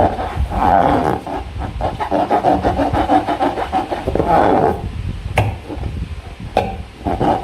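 Slime being squeezed and worked against rubber balloons: a wet, crackly squishing with rubbery rubbing and squeaks that comes in swells, and a couple of sharp clicks near the end.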